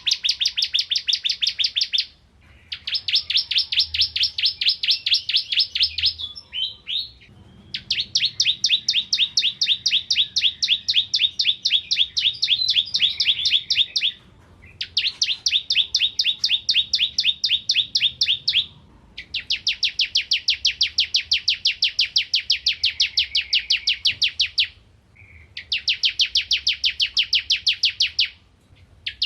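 Bar-winged prinia (ciblek kristal) singing. Its song is long bouts of fast, evenly repeated high notes, several a second, each bout lasting a few seconds, with brief pauses and a few short single calls between bouts.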